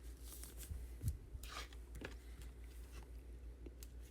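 Faint rustling and light taps of trading cards being handled, with a small thud about a second in and a brief swish soon after, over a steady low hum.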